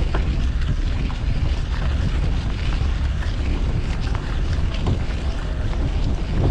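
Wind buffeting the microphone of a camera on a moving bicycle, a steady low rumble, with street and traffic noise underneath.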